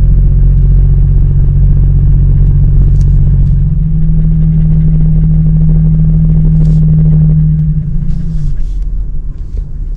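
Car engine and road noise heard from inside the cabin: a steady low drone with one strong hum. It grows a little stronger about four seconds in and eases off about eight seconds in as the car slows.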